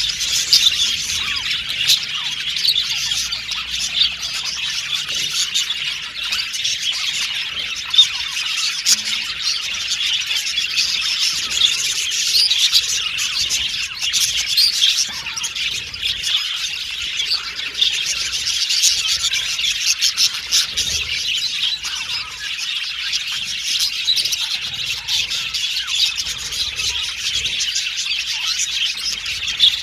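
A flock of budgerigars chirping and chattering together, a dense, unbroken mix of tweets, warbles and squawks.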